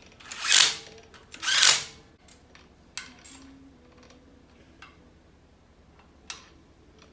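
Two short, loud hisses about a second apart, then a few light clicks and taps from handling metal axle hub parts.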